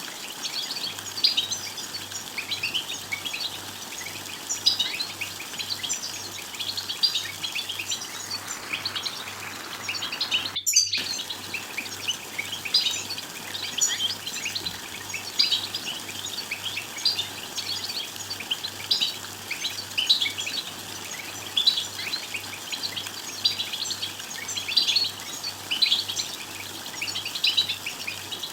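European goldfinch twittering: a dense run of quick chirps and trills, with louder bursts every second or two and a momentary break about ten seconds in. This is the 'btbta' chatter played to goad male goldfinches into singing.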